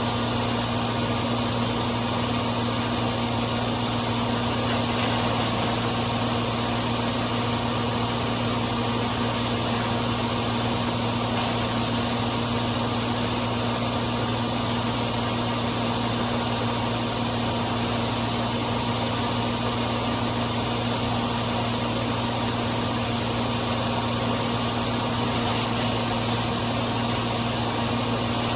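John Deere 4230 tractor's six-cylinder diesel running steadily at PTO speed, driving a New Holland 355 hammermill feed mixer as it grinds corn for cattle feed. An even, unchanging machine hum.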